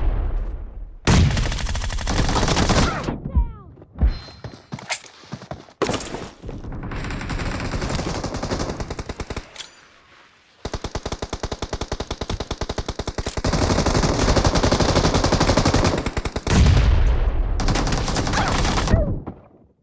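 Video-game automatic gunfire: bursts of rapid shots, several short ones in the first half and a long sustained burst of fast, evenly spaced shots through most of the second half.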